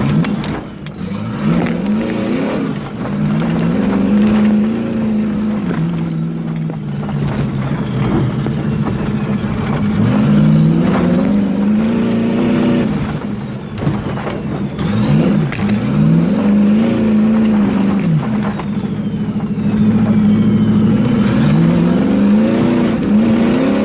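Turbocharged 454 big-block V8 in a Chevy squarebody pickup under hard acceleration, its revs climbing and dropping again several times.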